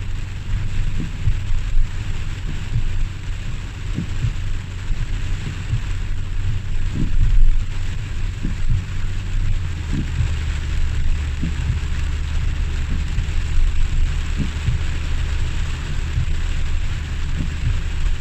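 Heavy rain falling steadily, a continuous hiss, under a constant low rumble with short thumps every second or so.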